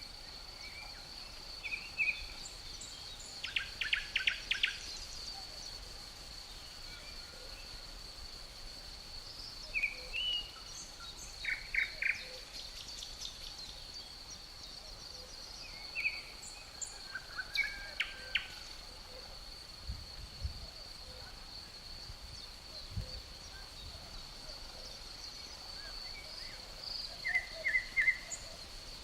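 Crickets trilling steadily on one high note throughout, with songbirds giving short chirps and calls in scattered bouts over it.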